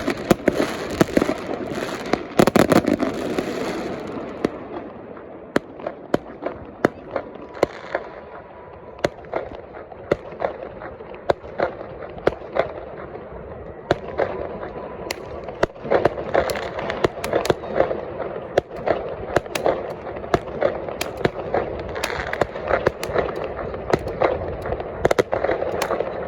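A fireworks display: a long run of sharp bangs from bursting shells. They come thick and loud for the first few seconds, thin out for a stretch, then build up again from about sixteen seconds in.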